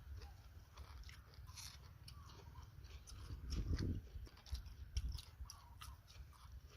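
A person eating close to the microphone: chewing and crunching food with small wet mouth clicks, plus a dull thump about three and a half seconds in.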